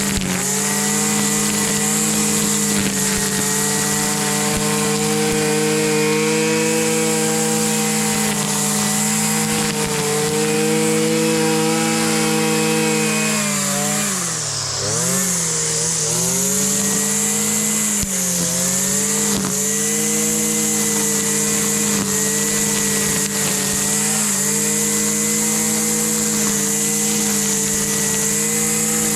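Husqvarna 326LD string trimmer's small two-stroke engine running steadily at high speed after its fuel line repair. Its speed dips briefly about halfway through and again a few seconds later, then picks back up.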